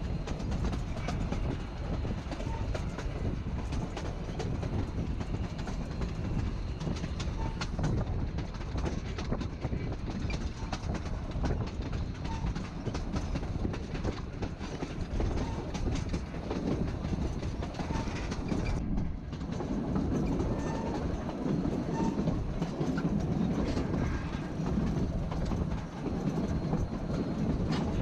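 Narrow-gauge passenger train rolling along, heard from on board: a steady rumble of wheels on rail, with frequent short clicks over the track. There is a brief dip in the sound about two-thirds of the way through.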